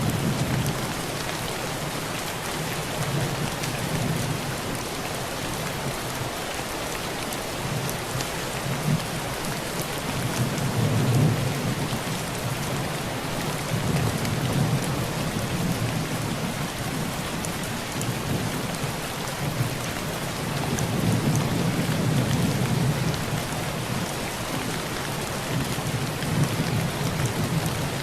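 Heavy rain falling steadily on a tin roof, a constant hiss, with several low rolls of thunder swelling and fading.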